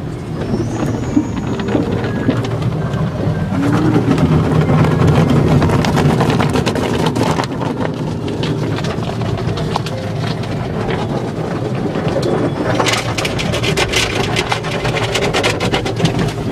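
Automatic tunnel car wash machinery working over a car, heard from inside the car: a continuous wash noise with a steady low hum, and a flurry of rapid hits and slaps about thirteen seconds in.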